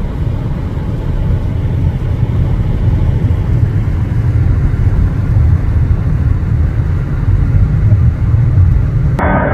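Low, steady rumble of jet aircraft engines, growing slightly louder. It cuts off abruptly to ambient music near the end.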